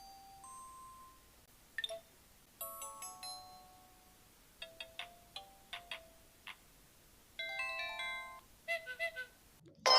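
Samsung mobile phone playing a run of short built-in alert tones one after another: brief electronic beeps and little chimes of a few notes each, separated by short gaps. Right at the end a much louder, fuller ringtone starts.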